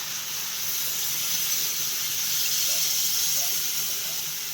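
Water hitting a hot pan of frying chicken, hissing and sizzling into steam. The hiss swells, then dies down near the end.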